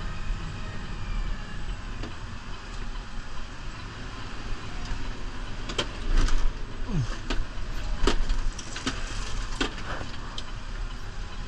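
New Holland Powerstar 75 diesel tractor running steadily, with a run of sharp knocks and clanks about six to ten seconds in.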